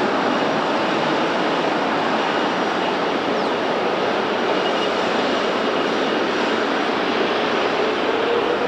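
Widebody jet airliner engines running as a steady, even rush of noise, with a faint high whine over it and a low tone that climbs slightly near the end.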